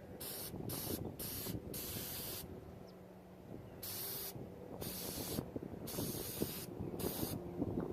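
Aerosol can of carburetor/brake parts cleaner spraying in a string of short hissing squirts, about nine in all with a short pause after the first few, solvent-cleaning the plastic race of the A/C belt tensioner bearing.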